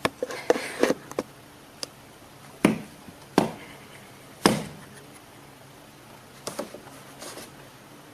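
A series of sharp knocks and thuds, several quick ones together at first and then single hits about a second apart, fading to softer taps near the end.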